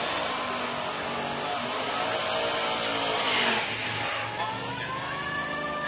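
Drag-racing car engines running and revving. The engine note and hiss build to a loud rev about three and a half seconds in, then drop away, followed by more rising and falling revs near the end.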